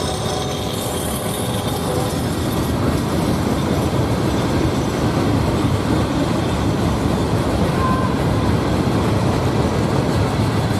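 A train rolling past close by, a steady loud rumble of rail cars on the track. The tail of a train horn fades out in the first couple of seconds.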